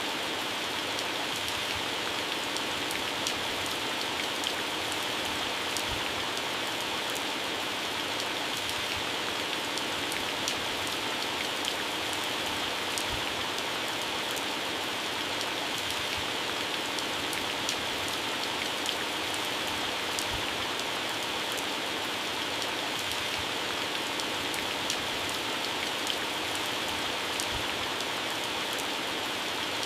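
Heavy rain falling steadily on leaves and grass, a continuous hiss with scattered distinct drop taps.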